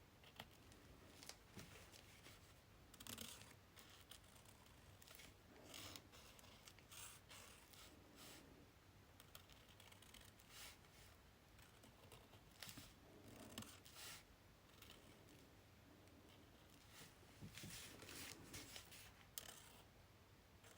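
Faint, scattered snips and rustles of scissors cutting paper.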